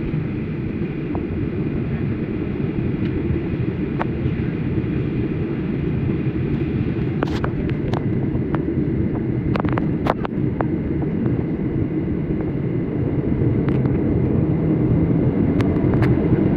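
Passenger airplane noise heard from the cabin: a steady low rumble that grows a little louder toward the end, with a few small clicks and knocks around the middle.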